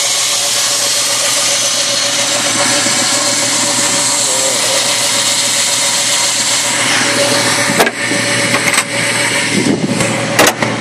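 1998 Ford Mustang's 3.8-litre V6 idling steadily through a catless glasspack H-pipe dual exhaust. Several sharp knocks near the end.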